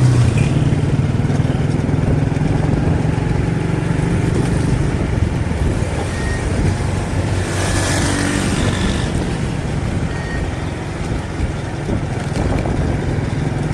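A 70cc motorcycle's single-cylinder four-stroke engine running steadily while riding, under a haze of road noise. Around eight seconds in, a brief rush of noise swells and fades.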